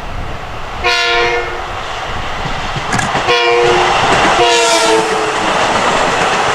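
LIRR M9 electric multiple-unit train sounding its multi-tone horn in three blasts, as a train does approaching a grade crossing; the last blast drops in pitch. The loud rush of the train passing grows from about three seconds in and keeps on.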